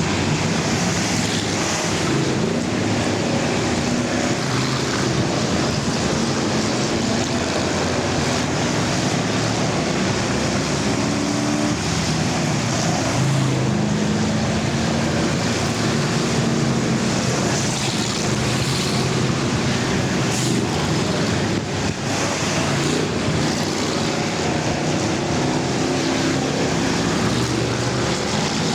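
Several full-size race cars' engines running together on the track during an enduro, their overlapping pitches rising and falling steadily as the cars circulate, with constant road and wind noise underneath.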